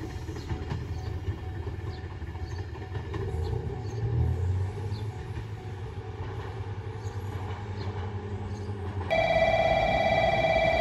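JR Kyushu YC1 series hybrid diesel railcar pulling away and running off along the line, a low rumble that swells about four seconds in. Near the end the sound cuts to a steady electronic chime of several held tones.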